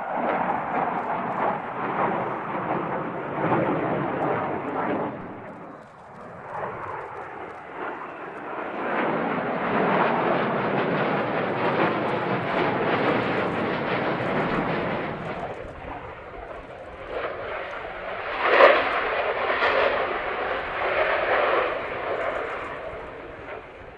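Panavia Tornado jets with RB199 engines flying past, a rough, crackling jet noise. It dies down briefly about six seconds in, then builds again. A sharp crack stands out about three-quarters of the way through.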